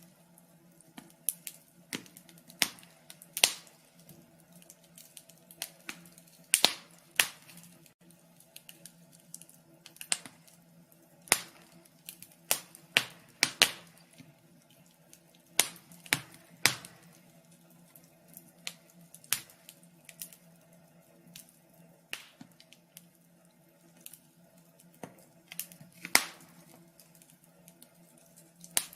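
Wood fire in a fireplace crackling, with sharp irregular pops and snaps about once a second over a faint steady hum.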